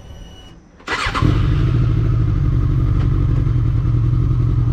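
Suzuki GSX650F motorcycle engine opening up sharply about a second in as the throttle is twisted hard to shoot into a gap in traffic, then running loud and steady at high revs.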